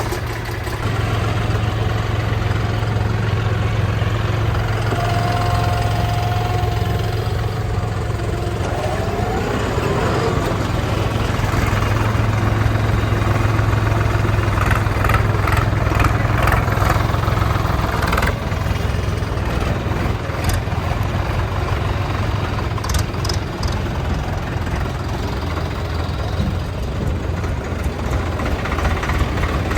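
Diesel tractor engine running steadily, a low even hum, with a short high steady tone about five seconds in.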